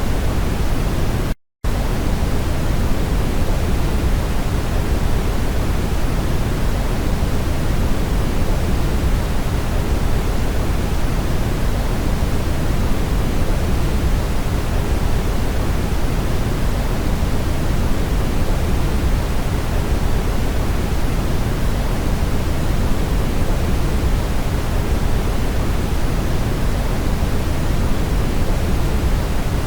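Steady brown noise, an even low rush with most of its weight in the bass, broken by a split-second cut to silence about a second and a half in.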